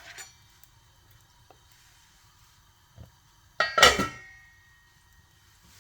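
Metal cookware clattering on the stove once, about halfway through, with a short metallic ring after it; a faint tick comes just before it.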